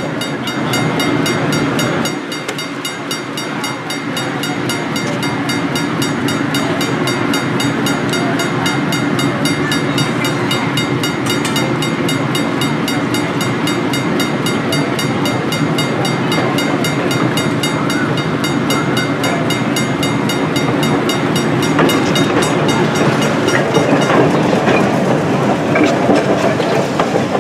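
Electric trolley running along the track, a steady mix of motor hum and wheel-on-rail noise with a fine regular ticking, growing a little louder over the last few seconds.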